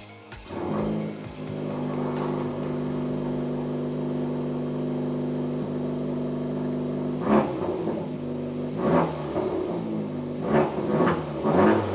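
Honda Civic Type R FL5's turbocharged 2.0-litre four-cylinder K20C1 engine through a Milltek valved exhaust, running at a steady idle, then revved in several quick throttle blips over the last five seconds.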